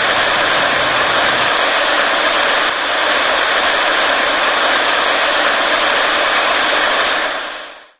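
Radio static: a steady, even hiss that fades out near the end.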